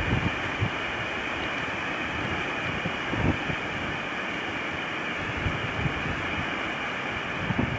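Blizzard wind blowing steadily, with a few low gusts buffeting the microphone.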